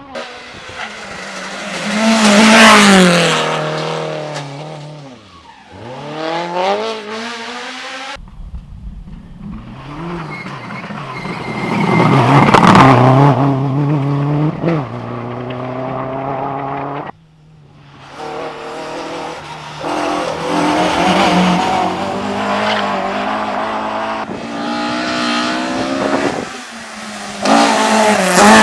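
Race car engines at hard throttle in a string of short clips that cut off abruptly. The engine notes rise and fall as the cars rev, and each car's note climbs to a loud peak and then drops in pitch as it passes close by.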